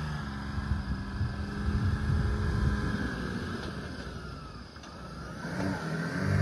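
Mercedes G-Class off-roader's engine running as it drives slowly down a rough dirt track toward the listener; the sound dips about three-quarters through, then grows louder near the end as the vehicle comes closer.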